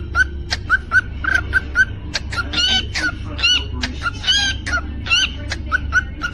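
Cockatiel chirping in quick short repeated notes, about three to four a second, with a few louder, rising whistled notes in the middle, over a steady low hum.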